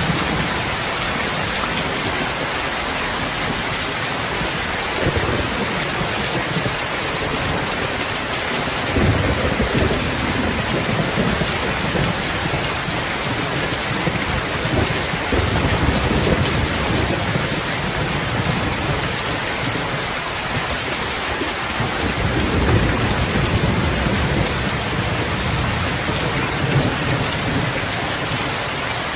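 Steady heavy rain with low rolling rumbles of thunder that swell and fade several times.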